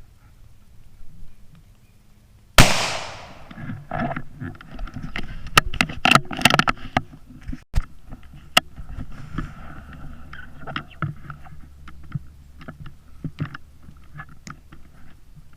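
A single sharp rifle shot from a 17 HM2 (.17 Mach 2 rimfire) about two and a half seconds in, followed by a run of irregular clicks and rustles over a low steady wind rumble.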